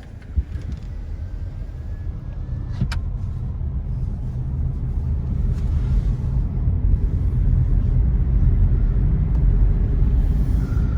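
Car driving, its engine and road rumble growing steadily louder as it picks up speed, with a sharp click about three seconds in.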